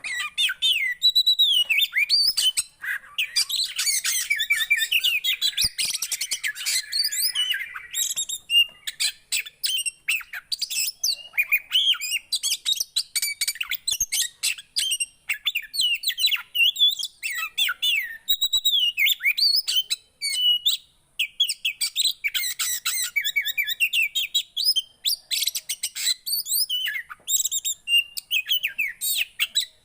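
A poci songbird singing continuously: rapid high chirps, trills and gliding whistled notes in quick phrases with brief gaps. The song starts abruptly.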